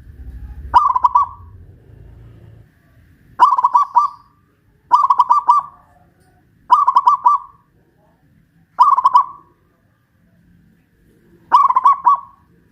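Zebra dove (perkutut) singing: six short cooing phrases spaced a couple of seconds apart, each a quick run of three or four notes.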